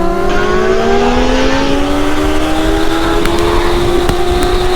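Sportbike engine pulling hard under acceleration in one gear, its pitch climbing steadily and smoothly, with wind rushing over the rider.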